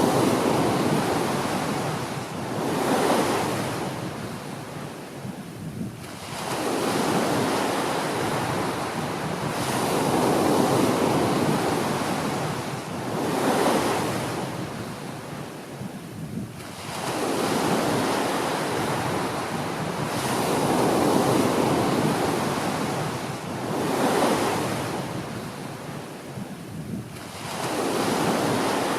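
Small waves washing onto a beach, the surf swelling and fading in repeated surges every few seconds.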